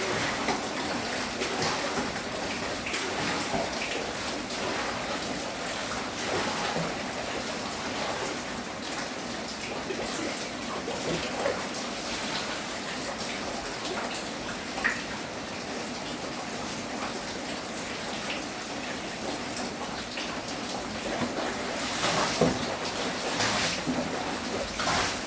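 Steady rain, with water running and splashing, and a few sharper knocks near the end.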